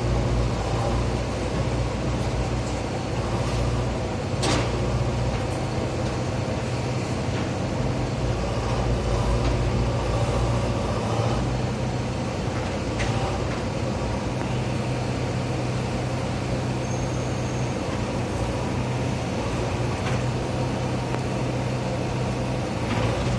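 JCB backhoe loader's diesel engine running steadily while digging, with a few short sharp clanks, the loudest about four seconds in.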